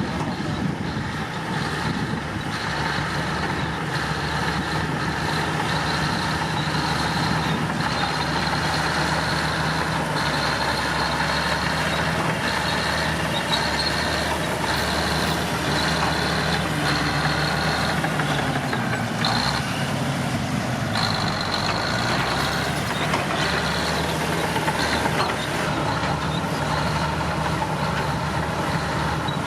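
Komatsu D65P bulldozer's diesel engine running steadily, its pitch dipping briefly about two-thirds of the way through. A high-pitched backup alarm beeps on and off in short runs, the sign of the dozer reversing.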